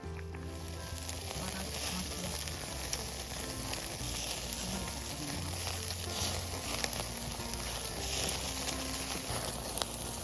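Food sizzling over a campfire, a steady hiss with scattered small crackles and pops.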